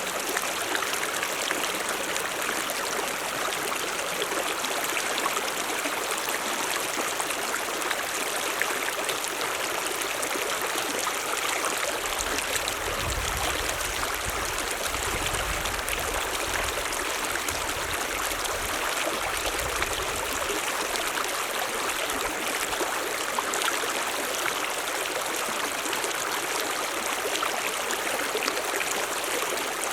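A mountain stream running steadily, a continuous rushing and trickling of water. About halfway through, a low rumble comes and goes for several seconds.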